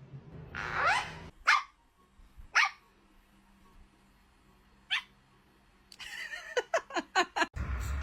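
Short, sharp bark-like calls from a pet animal. A few come singly, seconds apart, then a quick run of about eight in a second and a half near the end. A low rumbling noise follows just before the end.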